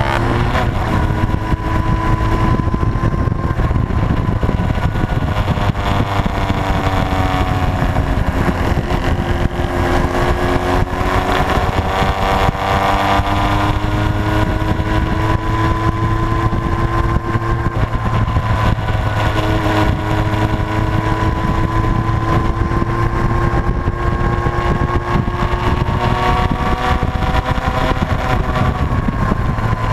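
Motorcycle engine running under way, its pitch slowly rising and falling with speed over a steady low rumble.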